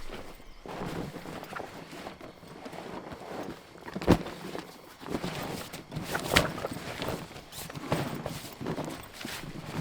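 Irregular knocks and clatter of things being handled, with a sharp, loud knock about four seconds in and another at about six and a half seconds.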